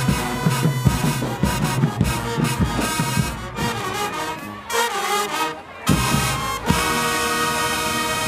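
Marching band playing, with brass over a drum beat; near the end the band holds a long sustained chord.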